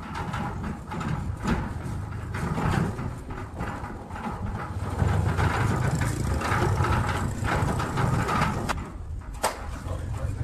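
Machinery running: a steady low hum with gear-like clattering and rattling that grows louder about halfway through, with a couple of sharp clicks near the end.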